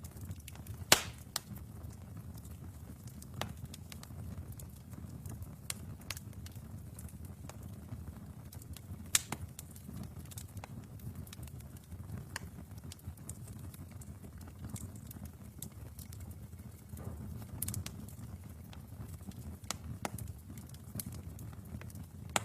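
Wood fire burning in a fireplace: a steady low rumble of flames with scattered crackles and sharp pops from the burning logs, the loudest pop about a second in and another about nine seconds in.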